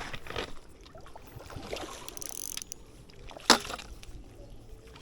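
Scattered knocks and handling clatter against a kayak, with a brief rushing, splash-like noise about two seconds in and one sharp knock about three and a half seconds in.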